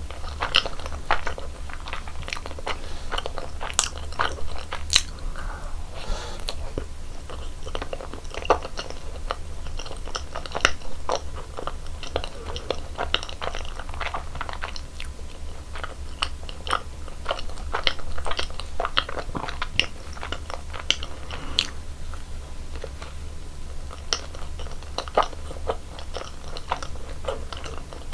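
Close-miked chewing and biting of cream-filled donuts: soft crunches and wet mouth clicks in an irregular stream, over a steady low hum.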